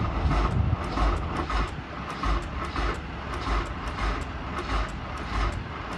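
Honda S2000's four-cylinder engine being started on a booster box, a low uneven pulse about twice a second.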